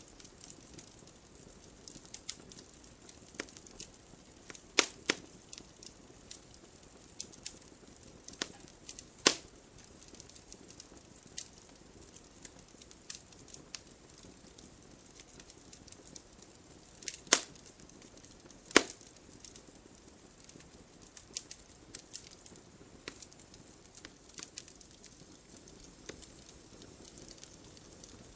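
Wood fire crackling: irregular snaps and pops over a soft steady hiss, with a few louder pops scattered through.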